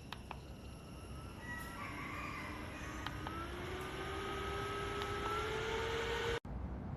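JISULIFE mini handheld fan running, its motor whine climbing steadily in pitch as it speeds up and the rush of air growing louder, with a few clicks along the way. The sound cuts off suddenly near the end.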